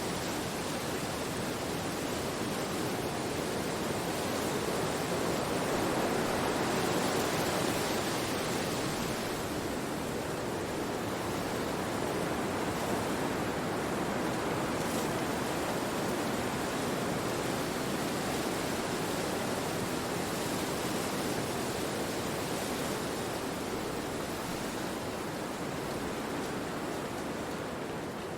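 Wind blowing through forest trees, a steady rushing that rises and falls gently, swelling about a quarter of the way in and easing off near the end.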